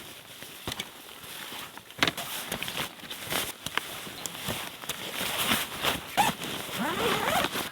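Footsteps crunching and squeaking in very cold snow, with a few short squeaks near the end.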